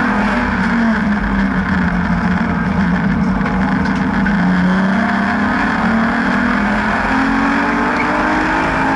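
BMW N52B30 3.0-litre straight-six in an E36 track car being driven hard, its engine note rising and falling several times as it accelerates and comes off the throttle.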